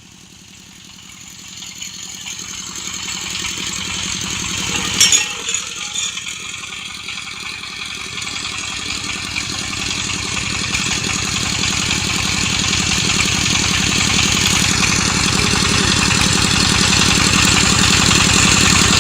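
Engine of a HANJIN well-drilling rig running with a rattle, growing steadily louder throughout, with one sharp knock about five seconds in.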